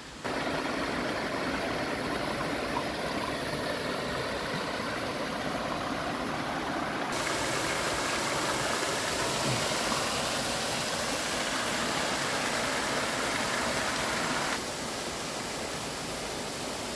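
Steady rushing roar of a waterfall, an even noise across all pitches. Its tone and level change abruptly twice, as the shots change.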